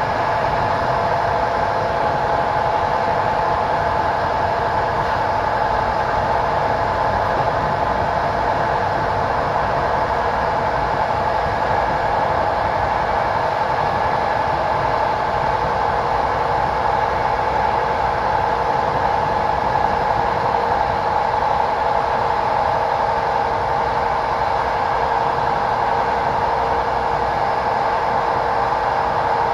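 PKP Intercity passenger train running at a steady speed: a continuous rail noise with a steady hum that does not change throughout.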